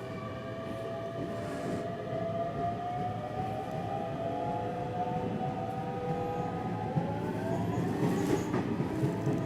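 Electric train pulling away from a station: the traction motors' inverter whine, several tones rising slowly in pitch and shifting to a new tone near the end, over wheel and track rumble that grows louder as the train picks up speed.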